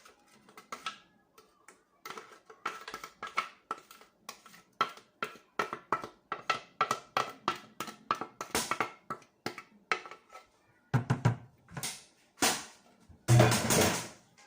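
A spoon scraping and tapping against a blender jar to get out the last of the cake batter, a quick run of irregular clicks, with a few louder knocks near the end.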